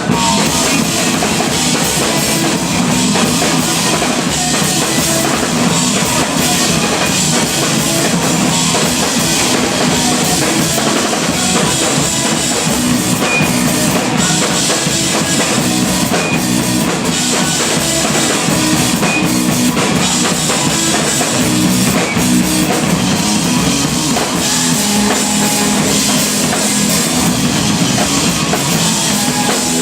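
A rock band playing loudly live, with a drum kit and electric guitar.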